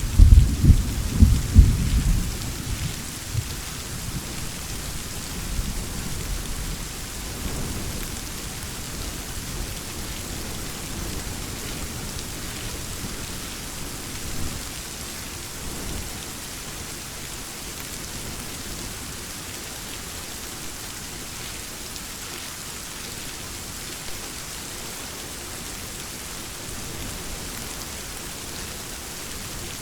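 Thunderstorm: a rolling rumble of thunder fading away over the first few seconds, with fainter distant rumbles later, over steady heavy rain.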